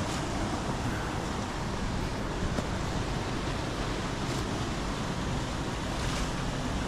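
Waterfalls rushing steadily, a dense unbroken roar of falling water.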